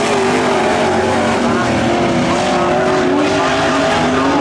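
Several Pro Truck engines race together on a dirt oval. Their overlapping pitches waver up and down as the trucks speed up and slow down.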